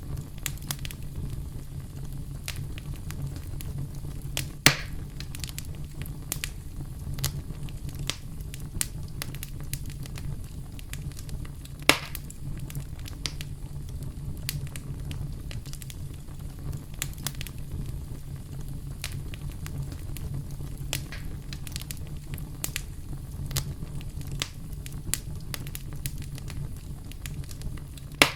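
Campfire crackling: a steady low rumble of burning wood with frequent sharp pops, and two louder snaps about five and twelve seconds in.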